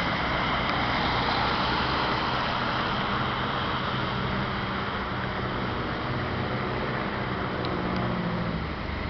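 Steady motor-vehicle and road noise, with a low engine hum that strengthens about three seconds in and eases near the end.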